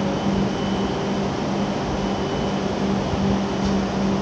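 Steady hum and whir of a stationary W7 series Shinkansen train standing at the platform with its doors open, its air-conditioning and equipment fans running, with a constant low tone under it.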